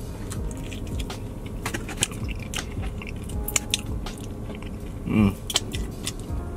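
Close-up chewing of a sugar donut filled with apple jam, with many wet mouth clicks and lip smacks as fingers are licked, and one brief hum of the voice about five seconds in.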